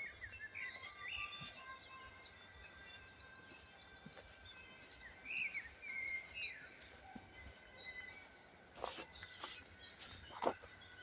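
Several songbirds singing in woodland: many short high chirps and whistles, with a quick run of repeated high notes about three seconds in. Near the end, a couple of sharp clicks or snaps stand out above the birdsong.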